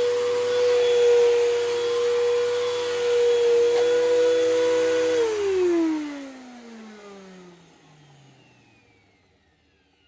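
Hoover Elite Rewind Plus upright vacuum cleaner running with a loud, steady whine, then switched off about five seconds in, its motor winding down with a falling whine until it stops. The owner is unsure whether the loudness comes from a bad motor or bad bearings.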